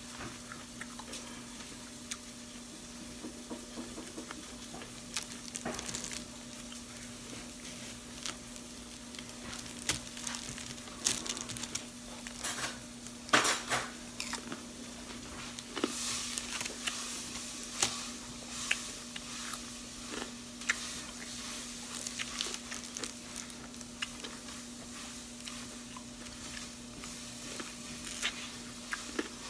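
Close chewing and crunching of a candy apple, its hard red candy shell and crisp apple flesh, with wet mouth clicks and smacks that come thickest from about a third of the way in. A steady low hum runs underneath.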